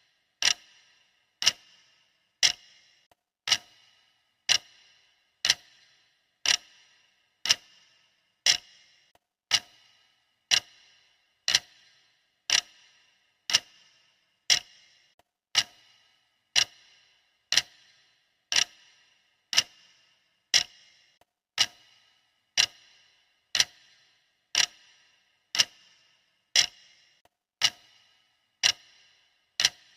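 Clock ticking steadily, one sharp tick per second, each with a short metallic ring.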